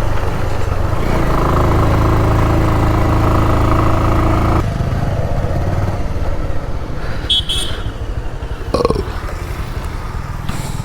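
Bajaj Pulsar single-cylinder motorcycle engine pulling uphill at steady revs. About halfway through, the revs drop and the engine runs more unevenly, with a brief falling note near the end.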